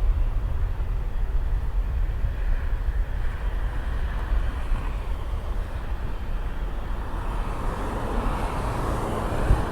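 Jet airliner engine noise at an airport runway, a steady roar that swells toward the end, with a low rumble underneath.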